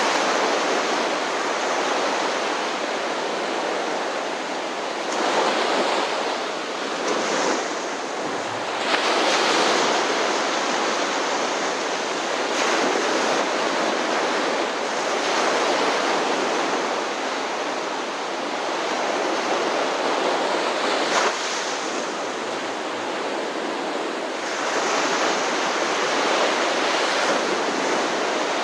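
Ocean surf breaking and washing ashore, a steady rush that swells every few seconds as waves come in.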